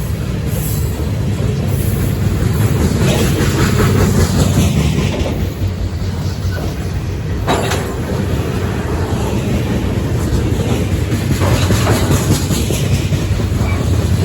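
Freight train cars rolling past at speed: a steady loud rumble of wheels on rail with irregular clicks and clacks as the wheels cross rail joints, one sharp clack about halfway through.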